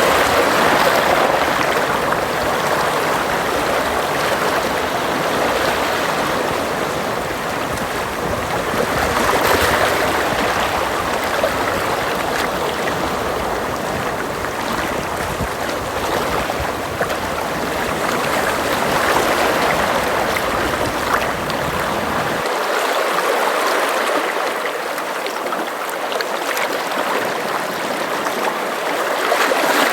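Sea waves washing in and out against a shore, swelling and easing about every ten seconds. The deep rumble under them drops away about two-thirds of the way through.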